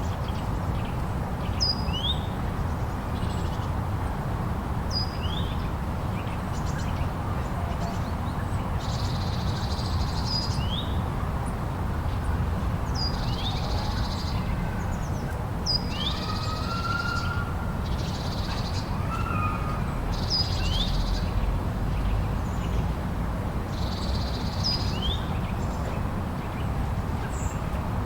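Steady low rumble of blizzard wind, with birds calling over it: short sweeping chirps in pairs every few seconds and a few harsher, longer calls.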